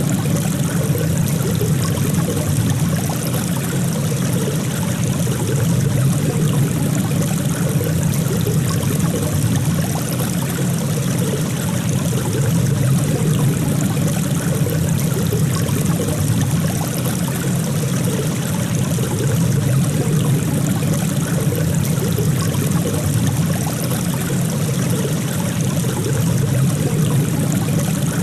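Running water flowing steadily, a continuous even rush with trickling over it.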